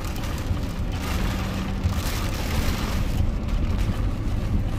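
Heavy rain beating on a moving car, heard from inside the cabin over a steady low rumble of engine and tyres on a wet road.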